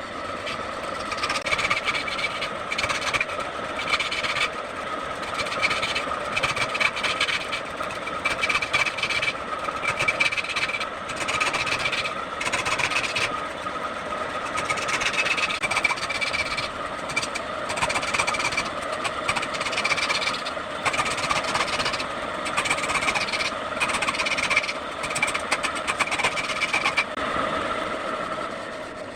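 Wood lathe running with a steady whine while a turning tool cuts and scrapes the spinning wood in short, uneven strokes.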